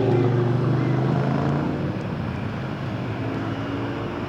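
A car engine running at low revs as it rolls along, its pitch easing down slightly over the first two seconds and then holding steady.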